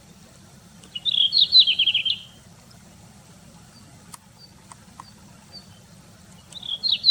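Red-flanked bluetail singing: a short phrase about a second in that starts high and breaks into a quick run of falling notes, with faint short call notes after it. The same phrase starts again near the end.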